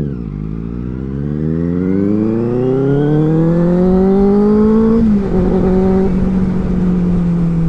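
Benelli 600i inline-four motorcycle engine accelerating, its pitch climbing steadily for about five seconds. It then drops and holds a steady lower note.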